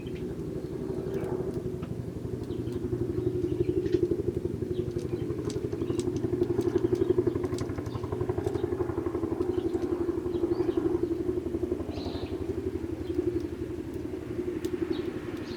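A motor engine running steadily with a fast pulsing hum, like a vehicle idling nearby. Faint sparrow chirps come and go over it.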